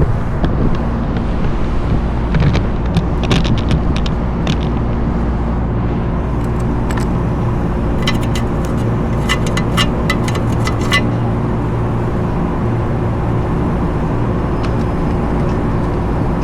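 Steady hum of nearby rooftop machinery, with two spells of rapid clicking from a socket ratchet loosening the motor-mount nuts.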